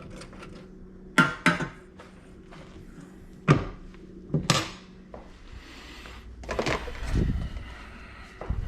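A few sharp knocks and clunks of hard objects being handled, in two quick pairs with a single knock between, followed by a rougher shuffling stretch, over a steady low hum.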